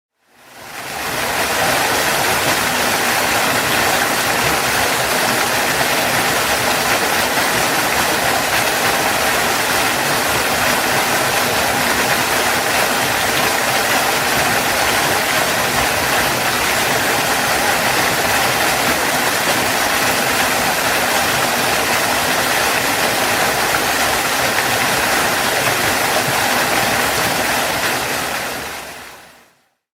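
Waterfall: a steady rush of falling water. It fades in over about the first second and fades out just before the end.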